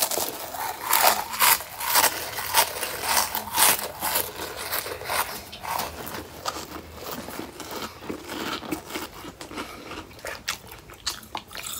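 Crunching and chewing of a big mouthful of Hot Fries, close to the mouth, with rapid crackly crunches for the first few seconds that thin out into slower chewing.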